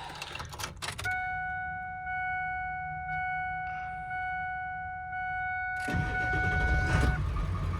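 A few clicks, then a steady electronic dashboard warning chime for about six seconds. About six seconds in, the 7.3 L Powerstroke V8 turbo-diesel cranks and starts, and the chime stops a second later as the engine settles into a low rumble.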